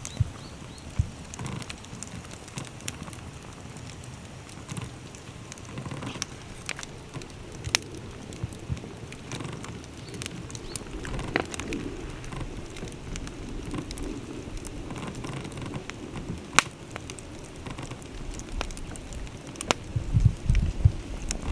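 Wood bonfire crackling, with irregular sharp pops and snaps over a soft background. Wind rumbles on the microphone near the end.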